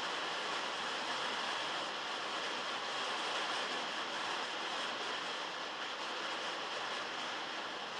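Heavy rain drumming steadily on a metal roof, heard from underneath as a dense, even rushing hiss.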